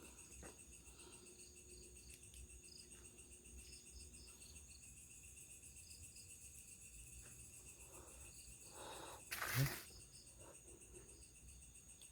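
Crickets and other night insects chirring steadily in a high-pitched, pulsing chorus. About nine and a half seconds in, a brief louder rustle or knock cuts across it.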